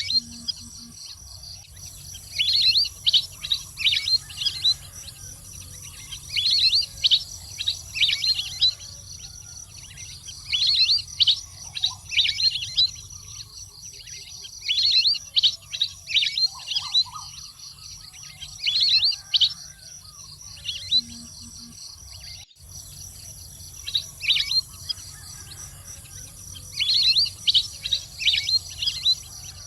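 Duck calling: bursts of rapid, high whistled chirps, with one burst of several quick notes every three to four seconds.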